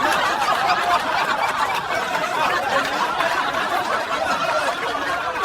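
Several people laughing and snickering together.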